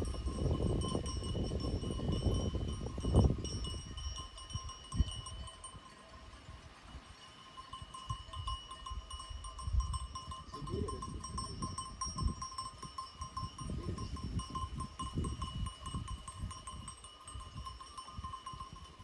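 Bells on a grazing flock of livestock ringing in a steady, jingling clank. Low rumbling noise fills the first few seconds.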